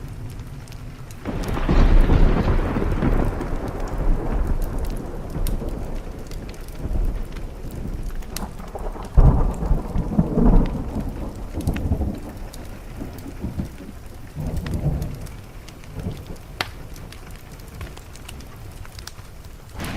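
Thunderstorm: steady rain with a thunderclap about a second in that rolls on for several seconds, then further rumbles of thunder midway and again near the end.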